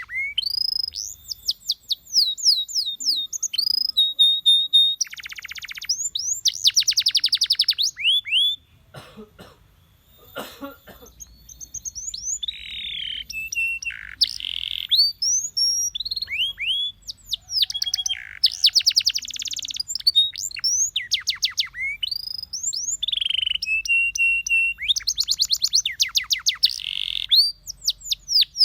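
Domestic canary song: long runs of fast trills, rapidly repeated sweeping notes and short held whistles. The song breaks off for a couple of seconds about nine seconds in, with a few soft clicks, then resumes.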